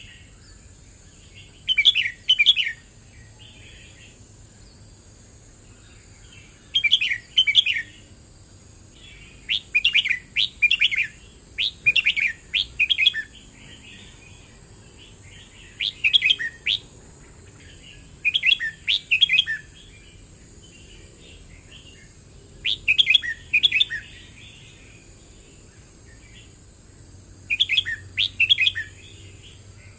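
Red-whiskered bulbul singing: about a dozen short, bubbly whistled phrases of about a second each, some in quick runs and others a few seconds apart.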